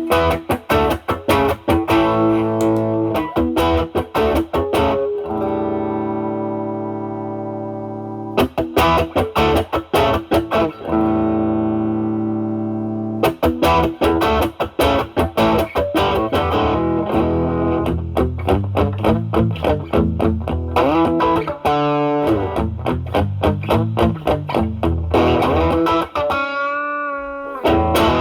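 Single-coil Fender Stratocaster played through an Ibanez Tube Screamer Mini overdrive (drive about 8–9) into a Marshall Valvestate amp's overdrive channel: quick picked lead lines with two long held notes, and a bent note with vibrato near the end.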